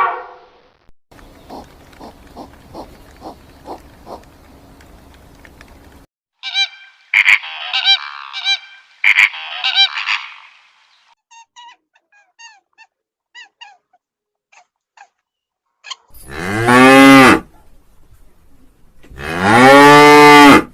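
A cow mooing: two long, loud moos, the second running to the end. Before them come a run of shorter high-pitched calls and a few scattered chirps from other animals.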